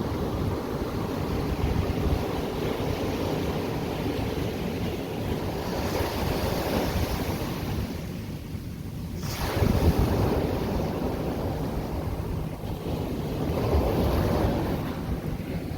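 Ocean surf: waves breaking and washing onto the shore in a continuous rush that swells and eases, with one wave surging in loudly about ten seconds in. Wind rumbles on the microphone.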